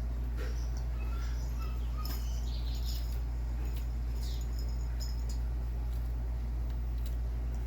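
Small songbird chirping: scattered short, high call notes, a few at a time, over a steady low hum.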